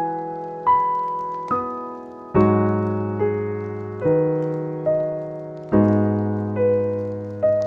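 Slow, gentle piano background music: single notes and chords struck about once a second, each ringing and fading away.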